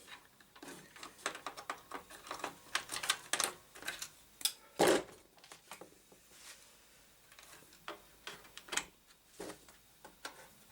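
Irregular small clicks and light knocks from computer hardware being handled on the bench, with one louder knock about five seconds in.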